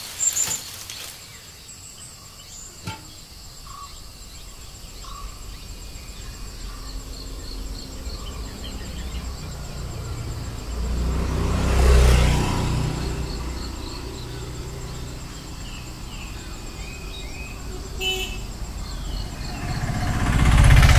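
Vehicles passing by outdoors over a faint, steady chirring of insects: one swells up to a peak about twelve seconds in and fades away, and another builds near the end.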